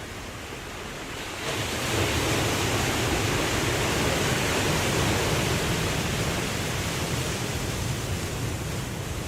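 Ocean surf: the rushing noise of the waves swells sharply about a second and a half in, then slowly eases off.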